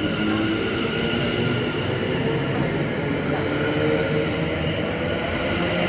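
Electric passenger train at the station platform, its traction and on-board equipment running steadily with a mix of steady whining tones over a low rumble.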